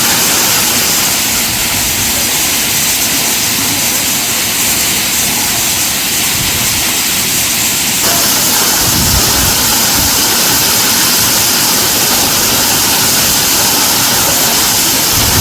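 Waterfall rushing, a loud steady hiss of falling water.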